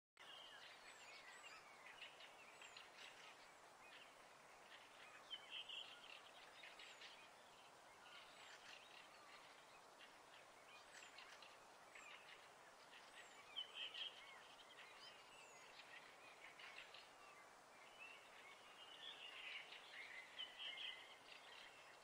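Faint birdsong: small birds giving short chirping notes every few seconds over a steady background hiss.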